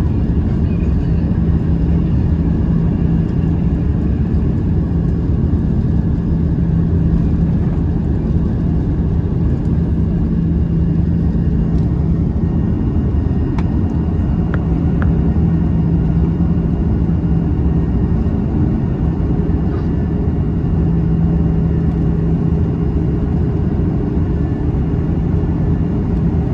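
Airbus A330 jet airliner during its takeoff in rain: a loud, steady low rumble with a steady hum, unchanging throughout, and a few faint clicks about halfway through.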